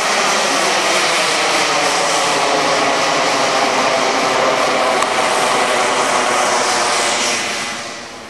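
Radio-control model airplane flying past. Its engine makes a loud, steady rush with a faint tone that falls slowly in pitch, then fades away over the last second or so.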